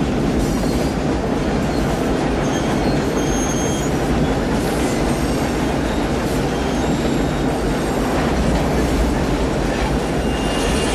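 Moving train heard from beneath a railroad car: steady rumbling and clattering of wheels on the rails, with a couple of brief high squeals.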